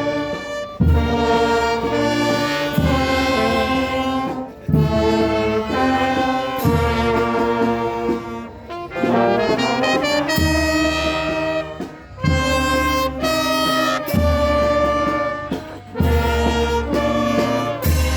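Brass band playing a tune, trumpets and trombones holding notes over a low bass line.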